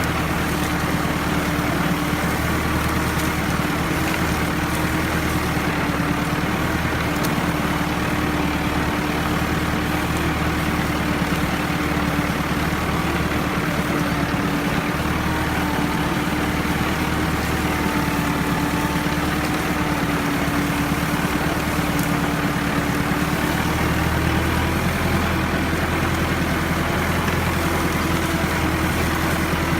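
Ford tractor engine running steadily while pulling a three-disc plough through sticky clay, with a small change in its low note about 25 seconds in.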